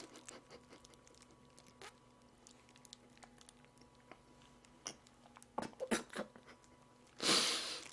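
Soft chewing of a strawberry mochi, with a few faint wet mouth clicks about five to six seconds in and a short breathy rush near the end.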